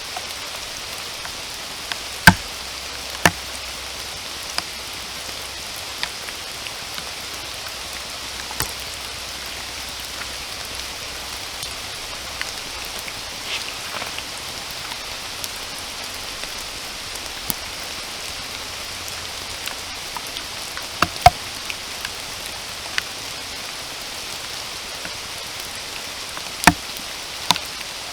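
Steady rain falling in a forest, an even hiss. Scattered sharp taps of large drops land close by, the loudest about two seconds in, about twenty-one seconds in and near the end.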